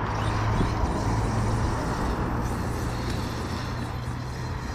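Arrma Kraton 8S brushless electric RC truck being driven over rough ground, its motor and tyres running steadily without a break.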